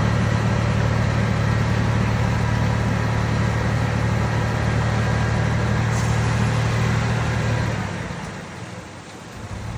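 Heavy diesel engine of earthmoving machinery running steadily with a deep, even hum, fading away about eight seconds in.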